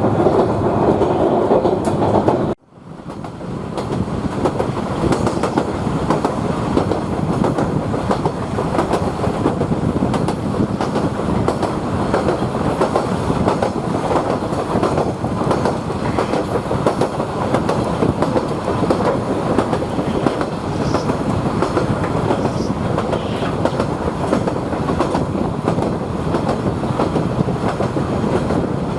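Queensland Rail 2000 class rail motor running along the track, a dense steady rumble of wheels and running gear. About two and a half seconds in, the sound cuts out abruptly and fades back up.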